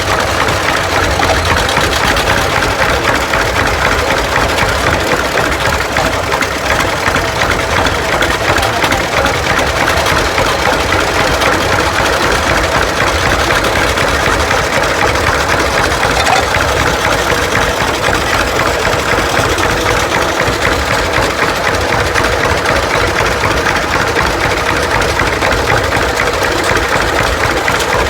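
Tractor engine running steadily with a rapid, even beat.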